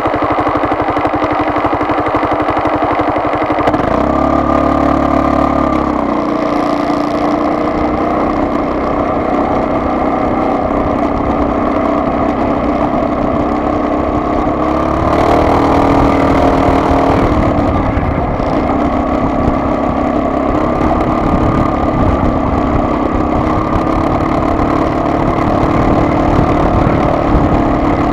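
Vehicle engine running while driving, with a steady drone whose note shifts about four seconds in and again around the middle.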